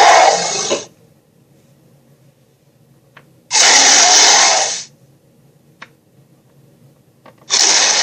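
Sharptooth's roar sound effect, played as harsh, raspy blasts of about a second each. One is dying away just under a second in, a second comes about three and a half seconds in, and a third starts near the end.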